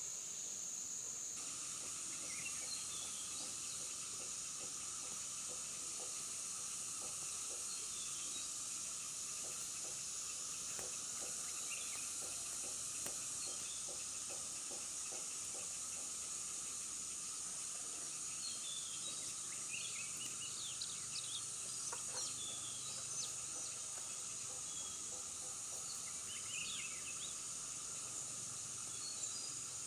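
Outdoor ambience: a steady high insect drone with scattered short bird chirps, a cluster of them in the second half.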